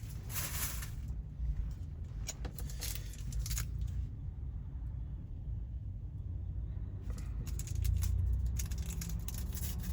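Steady low rumble of a semi truck's engine heard inside the cab, with scattered light rattles and clicks.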